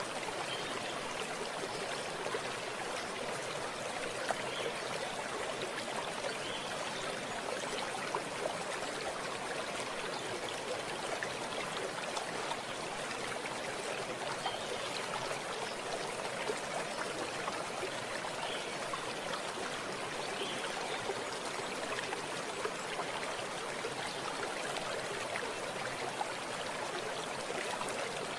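Running water in a stream: a steady, even rush with small trickles and splashes in it.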